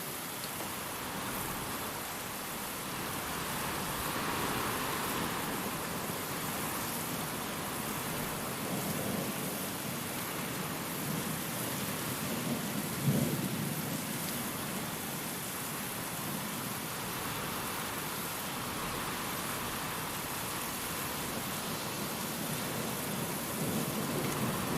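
Steady heavy rain with rolls of thunder during a storm; a sharp, loud thunderclap about halfway through, and low rumbling building again near the end.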